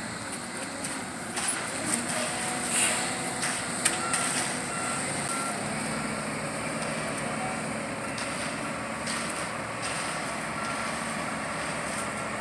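A truck running, with faint short beeps repeating at one pitch for a couple of seconds mid-way and again near the end, and a few sharp knocks early on.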